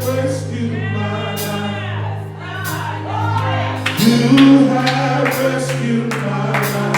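Gospel music with singing over sustained held chords, punctuated by regular sharp percussion hits.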